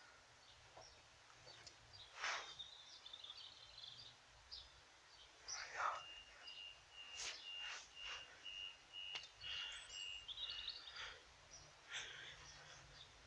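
Faint outdoor ambience of birds chirping, with a run of evenly repeated high notes for about five seconds in the middle, over a faint low hum of distant traffic.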